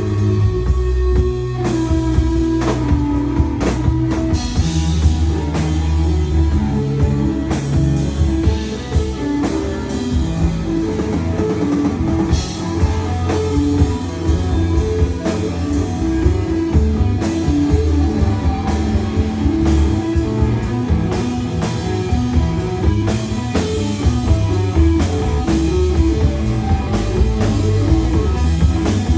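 Live rock band playing continuously: electric guitar lead over drum kit and a low, steady bass line.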